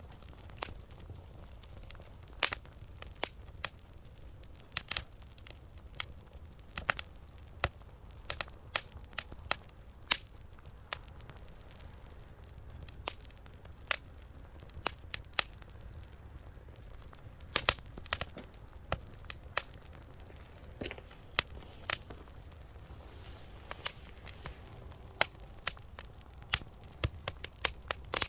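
Small wood fire crackling, with irregular sharp pops from the burning wood.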